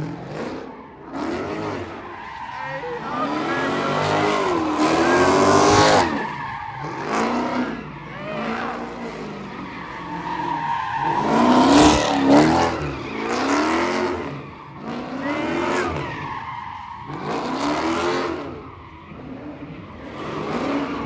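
A car engine revving hard, its pitch climbing and dropping over and over, with tyres squealing and skidding on the pavement as the car spins or drifts.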